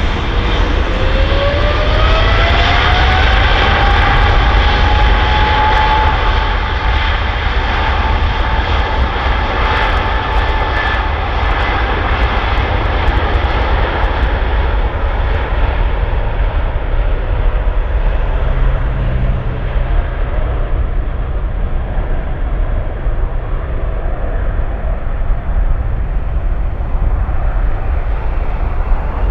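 Airliner's jet engines running, with a whine that rises in pitch over the first several seconds and then holds steady above a constant low roar, typical of engines spooling up.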